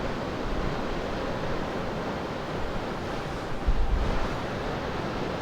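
Steady wash of surf and wind, with gusts buffeting the microphone in low rumbles, strongest about three and a half seconds in.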